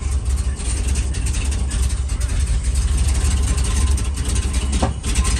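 2000 Ford F250's 5.4-litre V8 running rough on a cold start as it is given some gas: a deep, uneven rumble that sounds terrible. The owner puts this cold-start rough running down to a dirty idle air control valve and throttle body.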